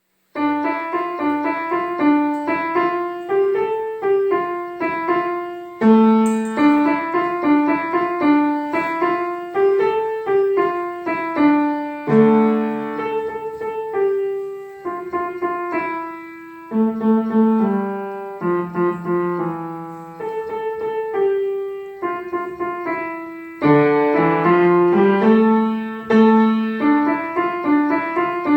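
Solo piano playing a gentle melody over a repeating accompaniment of single struck notes that ring and fade.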